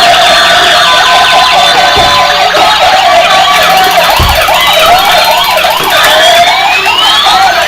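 Several electronic toy sirens from RC emergency vehicles sounding at once, their fast warbling wails overlapping. Longer rising sweeps come in near the end.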